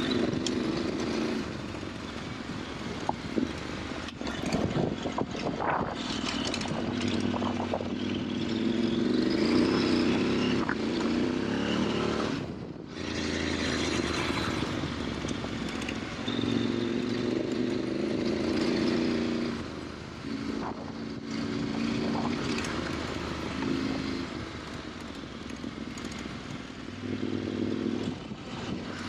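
KTM 890 Adventure R's parallel-twin engine running under way, its note rising and falling with the throttle and dropping away briefly twice, over a steady rush of wind and tyre noise with a few scattered knocks.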